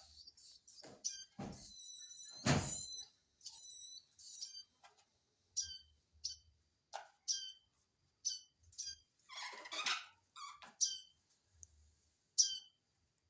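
Baby prenjak begging while being hand-fed: a series of short, high chirps, each sweeping down, repeated every second or so. A loud knock comes about two and a half seconds in, and a brief rustle near ten seconds.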